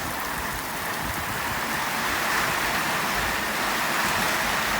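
Steady rain pattering on the shed's zinc roof sheets, an even, unbroken hiss.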